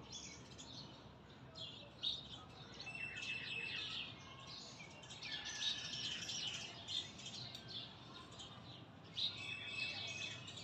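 Birds chirping faintly: many short, quick, falling chirps, with a few brief held whistled notes.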